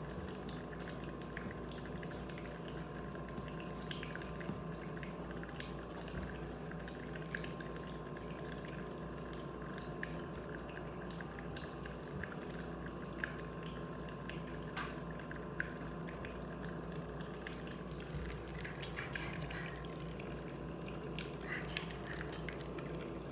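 Nebulizer running with a steady hum, with scattered faint clicks over it.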